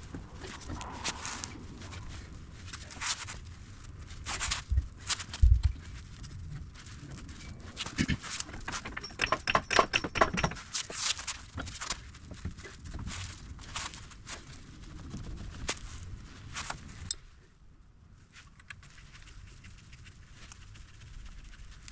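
Irregular knocks, clicks and clanks of hands and tools working on a truck's front suspension, with a heavier thump about five seconds in and a quick run of knocks around ten seconds in.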